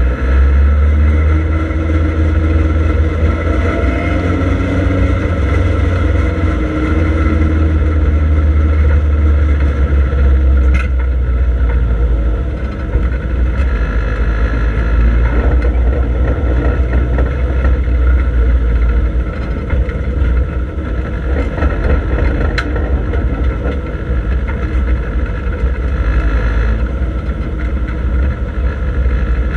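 Triumph Dolomite Sprint race car's four-cylinder engine running at low revs, heard from inside the cabin as a steady low rumble while the car rolls slowly. There are a couple of faint clicks about 11 and 22 seconds in.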